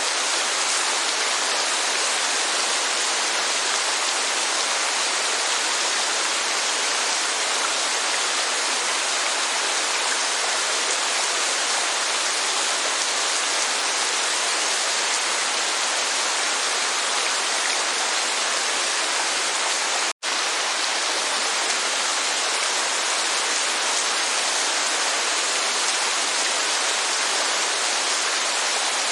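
Steady hiss of heavy rain and falling water, even and unbroken except for a split-second gap of silence about twenty seconds in.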